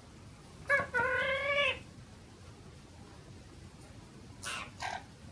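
Parrot giving a meow-like call, about a second long and rising slightly, then two short, harsher squawks near the end.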